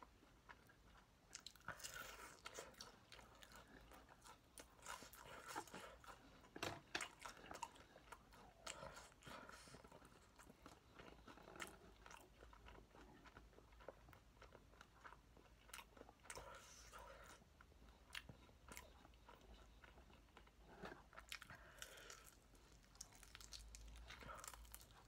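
Close-up crunching and chewing of Kyochon Honey Combo fried chicken: quiet, irregular crackles as the crisp honey-glazed coating is bitten and chewed, in clusters every few seconds.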